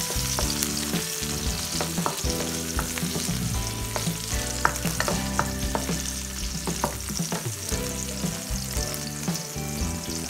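Chopped onion and garlic sizzling in hot oil in a wok, stirred with a wooden spatula that knocks and scrapes against the pan in frequent short clicks.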